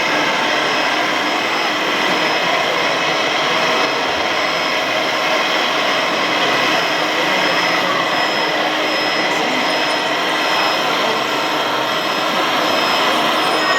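Radio-controlled model construction machinery running: a steady mechanical whine of small electric motors and gearing, several steady tones over a noisy hum.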